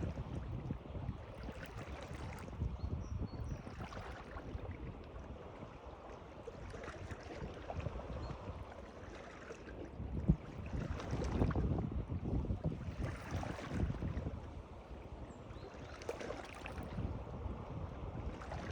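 Water lapping and washing in uneven surges every couple of seconds, over a low rumble of wind on the microphone, with a single short knock about halfway through.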